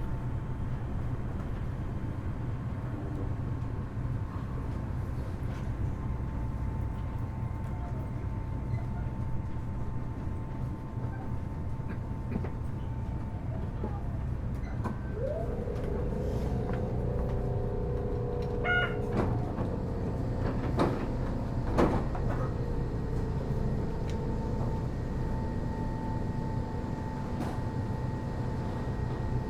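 Kitakyushu Monorail Series 1000 car with Hitachi IGBT-VVVF traction, heard from inside as it slows into a station: a steady low running noise with faint high steady tones. Around halfway there is a short wavering tone, and a few seconds later a series of knocks and clunks as the sliding doors work.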